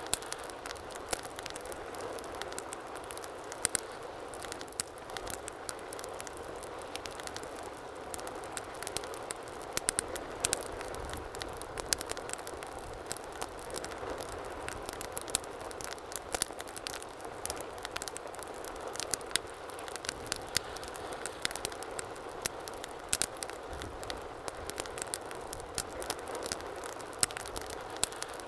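Wood fire burning in a fireplace: a steady hiss with frequent irregular sharp crackles and pops from the burning logs.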